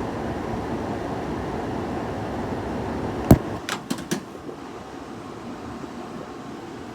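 Frigidaire 5000 BTU window air conditioner running with a steady whooshing hum. About three seconds in there is a sharp click, then three lighter clicks within the next second, after which the running sound is quieter and thinner.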